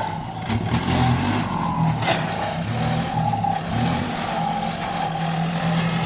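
Kubota tractor's diesel engine running steadily under load while ploughing under rice stubble, with a few brief knocks from the working machine.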